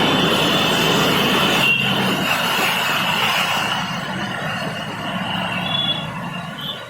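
A train running on rails with a steady high squeal of wheels over the rumble, easing off in the second half.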